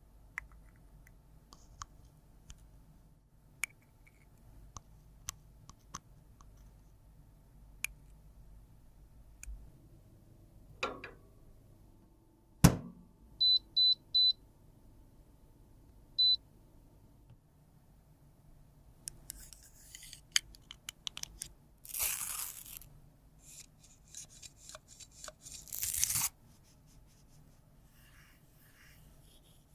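Close-up handling sounds of makeup repair: small clicks and taps and one sharp knock, then three quick electronic beeps followed by a single beep, and later several noisy rasping, tearing bursts, two of them longer and louder.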